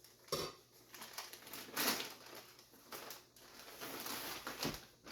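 Packaging being handled and torn open: a run of irregular crinkling and rustling bursts as a shirt is unwrapped.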